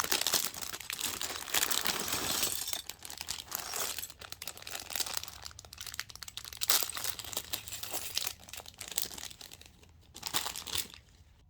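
Thin plastic LEGO parts bags crinkling and rustling as they are handled and opened, with many quick rustles and clicks that die away near the end.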